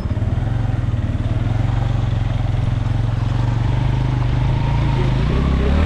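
Motorcycle engine running steadily while riding, over a steady hiss; about five seconds in its pitch drops as the engine slows.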